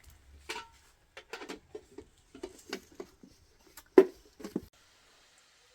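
A run of irregular light knocks and taps, the loudest about four seconds in, stopping about a second before the end.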